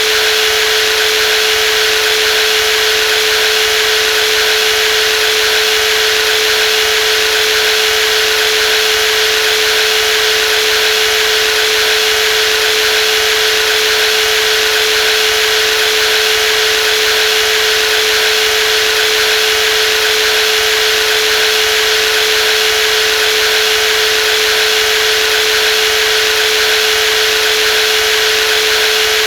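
Brushless jigsaw running steadily: an even, high-pitched motor whine over a dense buzz, unchanging throughout.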